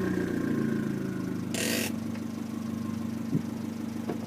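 2013 Fiat 500 Abarth's 1.4-litre four-cylinder engine idling steadily. A short burst of hiss comes about a second and a half in.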